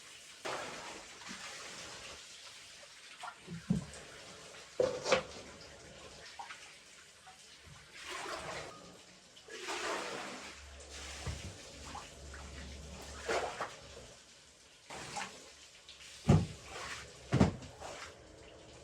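Water pouring and splashing in short rushes, with several sharp knocks in between; the two loudest knocks come near the end.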